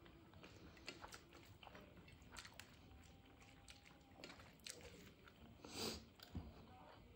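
Faint close-miked chewing of a mouthful of rice, with soft wet mouth clicks, and fingers mixing rice on a steel plate. A brief louder rustle comes near the end.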